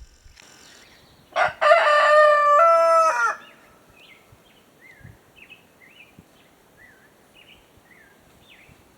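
A rooster crows once, about two seconds long, followed by small birds chirping.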